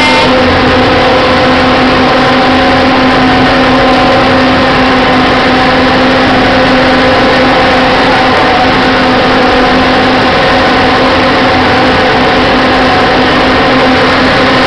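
Motorboat engine running steadily under way, a constant drone over a loud, even rushing noise.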